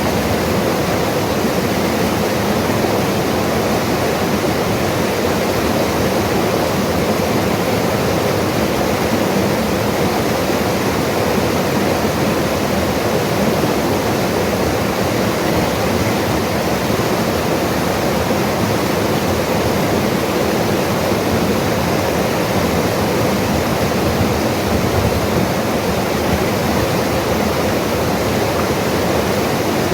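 A mountain river rushing over its bed: a loud, steady wash of running water without a break.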